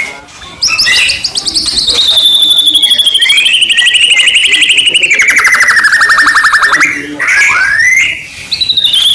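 White-rumped shama (murai batu) singing loudly. A long, fast, rattling trill slowly falls in pitch, then short rising notes follow near the end.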